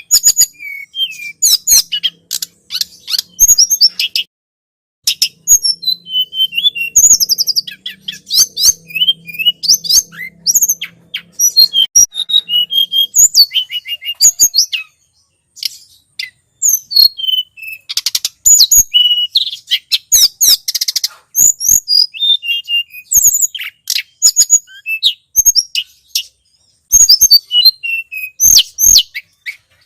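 Tledekan gunung songbird calling in a bird-lure (pikat) recording: rapid runs of sharp, high chirps and trills, broken by brief pauses.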